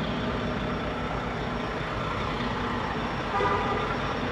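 Steady mechanical hum over background noise, with a brief higher tone about three and a half seconds in.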